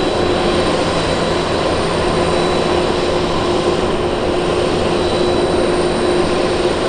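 Airplane engines running loud and steady, a dense rush with a few steady whining tones held through it.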